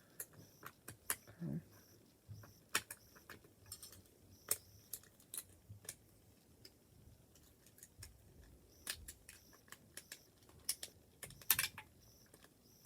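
Small plastic LEGO pieces being handled and pressed into place: light, irregular clicks and rattles, a few louder snaps near the end.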